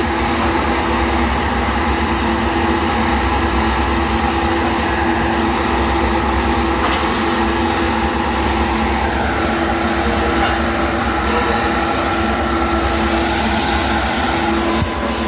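Steady, loud mechanical drone with a constant hum, as of running workshop machinery. A higher steady whine joins about nine seconds in.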